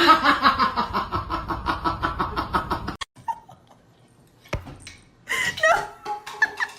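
A person laughing in quick, evenly spaced bursts that fade away, cut off suddenly about three seconds in. After that come a sharp click and a few short pitched calls near the end.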